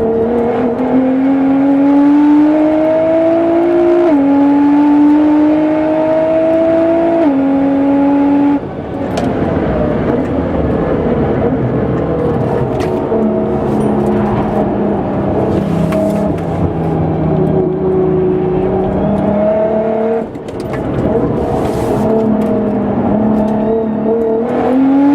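Tuned 700 hp Nissan GT-R R35's twin-turbo V6 accelerating hard on track, its pitch climbing with two upshifts. About eight and a half seconds in the throttle comes off; the engine runs lower and steadier through a corner, then pulls again, rising near the end.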